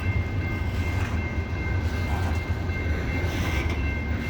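Slow-moving loaded CSX coal train rolling past on a grade, a steady low rumble with thin steady high-pitched tones above it.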